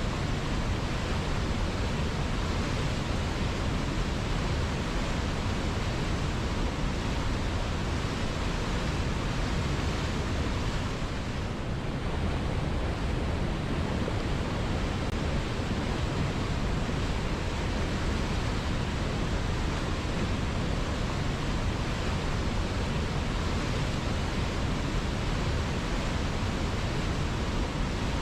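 River water flowing, a steady, even noise.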